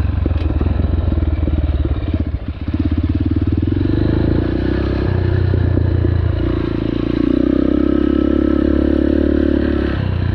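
Dirt bike engine running under throttle while riding, the revs dropping briefly about two seconds in, then held higher for several seconds before easing off near the end.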